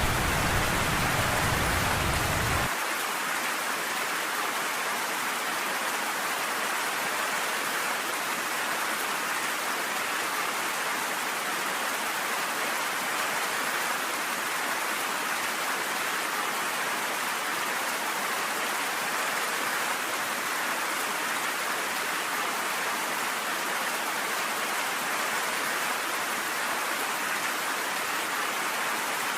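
Steady rain, an even hiss of falling water. A deep low rumble underneath stops abruptly about three seconds in, leaving only the rain.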